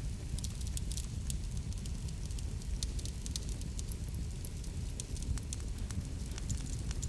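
Wood fire crackling in a fireplace: a steady low rumble of burning with frequent sharp pops and snaps scattered irregularly throughout.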